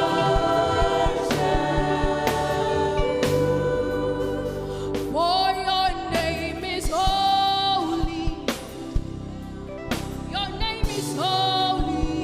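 Live gospel worship music: sung vocal lines with sliding, held notes over keyboard chords and a steady drum beat.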